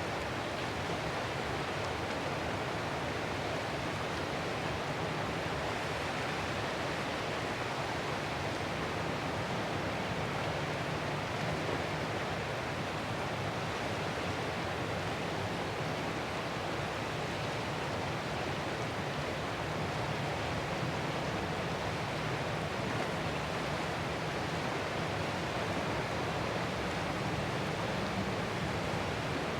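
Ocean surf as a steady, unbroken rushing wash, with no single breaking wave standing out.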